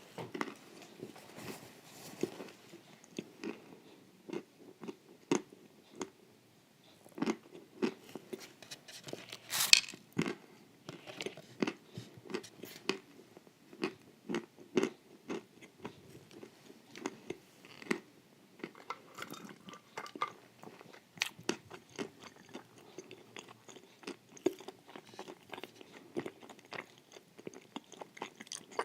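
Close-up chewing and crunching of a creamy, crunchy wafer-and-cream dessert: irregular bites and wet chews, with the sharpest crunch about ten seconds in.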